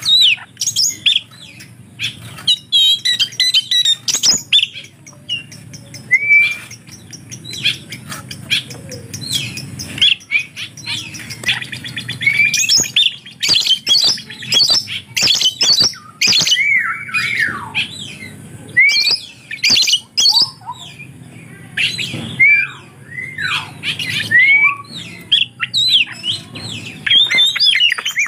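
Oriental magpie-robin (kacer) singing without a break: a varied stream of short whistles, sliding notes and harsh chattering clicks, with imitations of lovebird calls mixed into its song.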